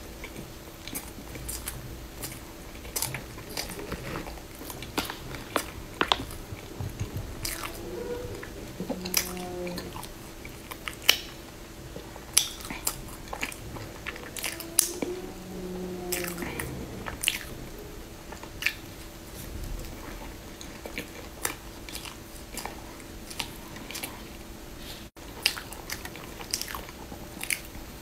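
Close-up mouth sounds of a person eating a soft bread roll: bites, chewing, wet lip smacks and crumbly crunches coming irregularly throughout. A couple of short closed-mouth hums come about a third of the way in and again a little past halfway.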